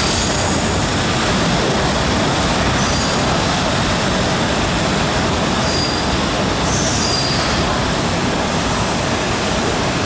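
MTR engineering train hauled by diesel-electric locomotives running into a station, heard behind the platform screen doors as a loud, steady rumble. Short, high wheel squeals come through several times.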